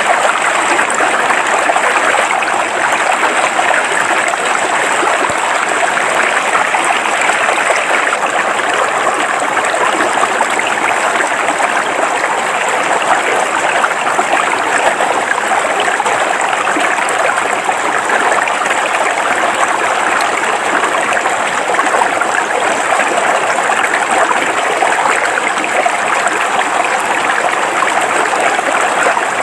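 River water flowing over rocks, a steady, even rush with no breaks.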